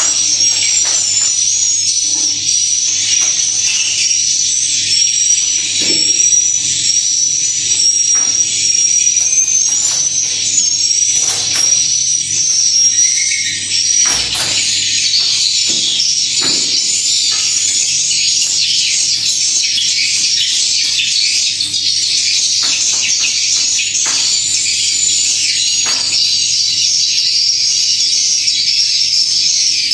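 Dense, continuous high-pitched twittering of many swiftlets, with scattered short clicks.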